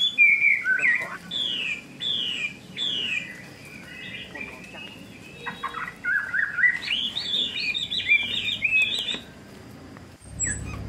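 Wild birds singing: a series of clear descending whistled notes, about one a second, then a rapid jumble of chirps from about six to nine seconds in. A low rumble begins near the end.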